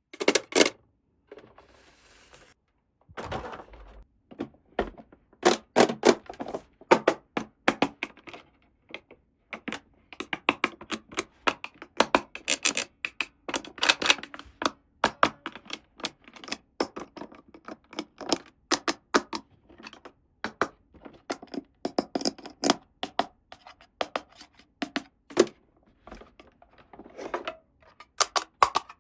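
Hard plastic pieces of a Barbie dress-up playset being handled, giving rapid irregular clicks, taps and knocks, sparse for the first few seconds and then almost continuous.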